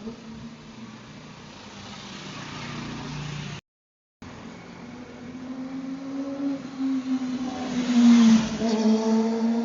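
A vehicle engine running with a steady pitch, cutting out completely for about half a second just under four seconds in, then growing louder to a peak about eight seconds in and easing off, like a car or motorcycle passing close by.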